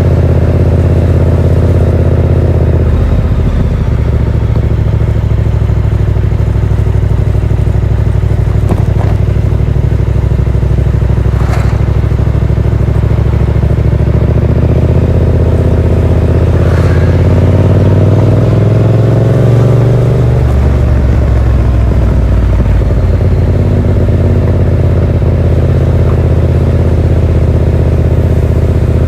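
Yamaha MT-07's 689 cc parallel-twin engine running through a Yoshimura R77 exhaust with its dB killer fitted, heard from the rider's seat on the move. It holds a steady pace with a brief change about three seconds in. From about halfway through the pitch climbs for several seconds as the bike accelerates, then drops sharply.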